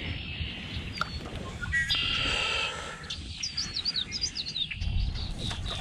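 Wild birds calling in a marsh: a buzzy trill about two seconds in, then a run of quick, high chirps, over a low rumble.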